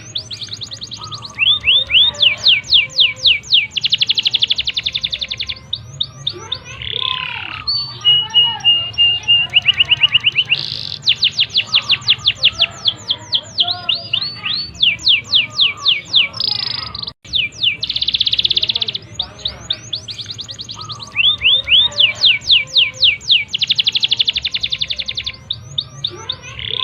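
Domestic canary singing a long, loud, continuous song of fast trills and rapid runs of repeated sweeping notes, phrase following phrase with almost no pause. The song breaks off suddenly for a moment about two-thirds of the way through.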